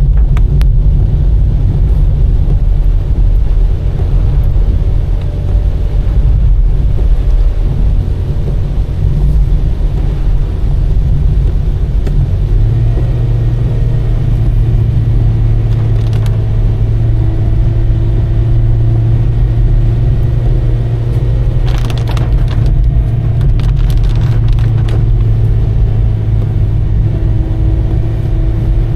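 Car driving, a loud steady low rumble of engine and road noise; about twelve seconds in a steady low hum sets in, and a few short clicks come near the end.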